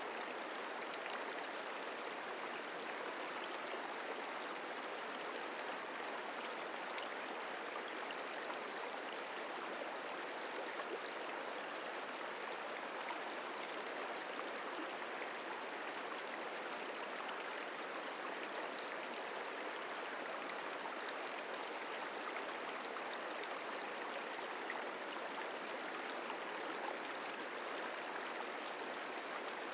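The Merced River flowing over rocks: a steady, even rushing of water.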